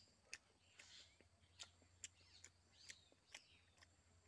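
Faint mouth sounds of chewing: a handful of sharp wet clicks and smacks, spaced irregularly about half a second to a second apart, with soft bird chirps in the background.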